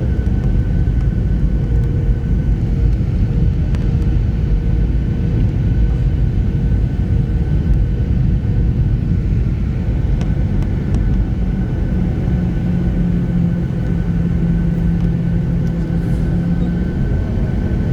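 Airliner cabin noise: the engines and airframe give a steady low rumble with a constant whine, and a lower hum joins about twelve seconds in for some five seconds.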